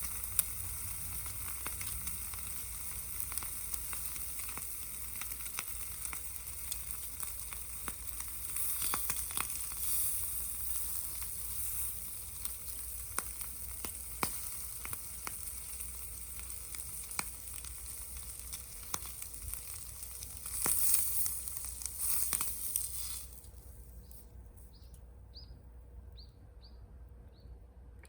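Food frying in a pan over a wood gas stove: a steady sizzle with scattered sharp crackles, cutting off suddenly about 23 seconds in.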